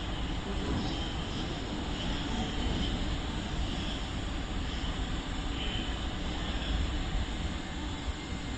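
Train rolling through the station with a steady low rumble of running and wheel noise.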